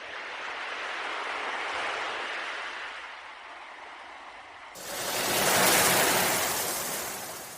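Ocean waves washing onto a shore: one swell eases off, then a louder wave surges in about two-thirds through and fades away. The sound changes abruptly where the louder wave comes in, as if two recordings were joined.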